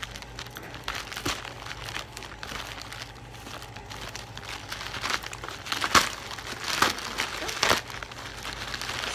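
Plastic packaging crinkling and rustling as a mailed package is opened by hand, with a few sharp louder crackles in the second half.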